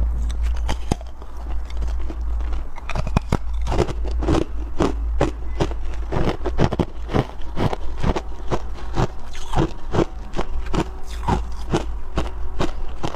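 Close-miked crunching of soft, powdery freezer frost being bitten and chewed, with irregular crunches a few times a second over a steady low hum.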